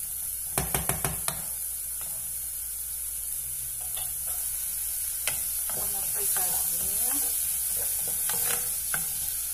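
Chopped onion, garlic and green pepper frying in lard in a pot, sizzling steadily while being stirred with a wooden spoon. The spoon knocks against the pot five times in quick succession about half a second in, and clicks once or twice more later.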